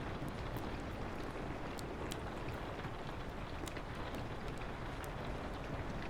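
Fireplace crackling, with scattered sharp pops every second or so, over the steady hiss of rain on a window and a soft low wind.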